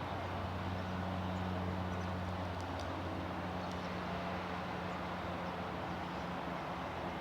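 Jet airliner engines running at low taxi power, a steady low drone with a hum in it.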